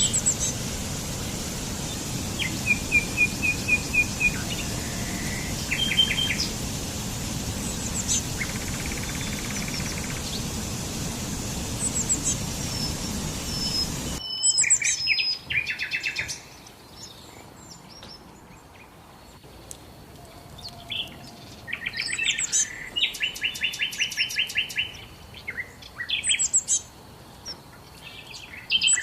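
Songbirds singing and chirping, with short, rapid trilled phrases repeated throughout. A steady rushing background noise underneath cuts off abruptly about halfway, leaving the birdsong over a much quieter background.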